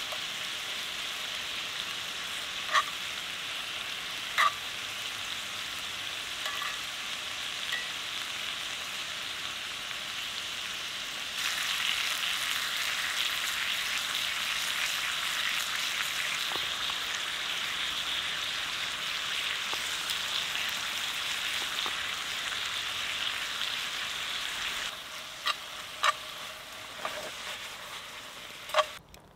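Chorizo and king prawns sizzling in a cast iron frying pan over a campfire, stirred with a metal spoon, with a few sharp clicks. The sizzle gets louder about eleven seconds in and eases off again near the end.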